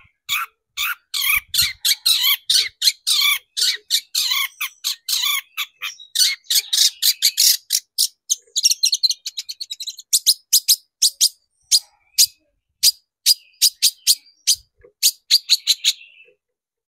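Long-tailed shrike (cendet) singing a fast run of short, harsh chattering notes, several a second, with a thinner, higher-pitched stretch about halfway through; the song breaks off shortly before the end.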